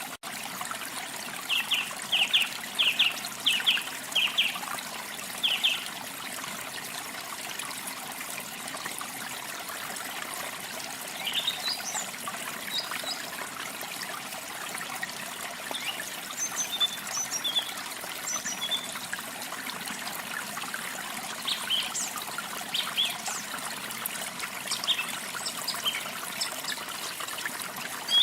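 Water trickling steadily, with small birds chirping over it: a quick run of about six chirps in the first few seconds, then scattered chirps through the rest.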